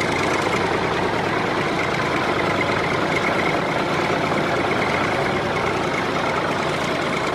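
An engine running steadily, a dense even noise with a thin high tone held through it.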